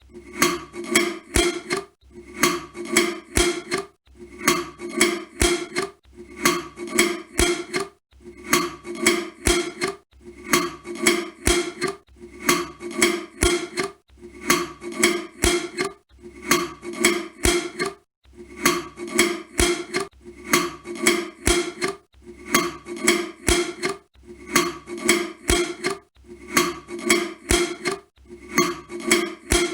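A jar's screw-on lid being twisted shut, a run of clicking, scraping turns. The sequence repeats in an even cycle about every two seconds.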